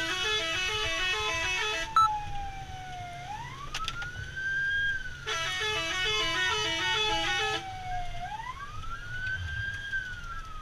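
Fire engine siren wailing in slow falling and rising sweeps. Twice a second, rapidly pulsing electronic siren tone cuts in for about two seconds. A sharp click about two seconds in.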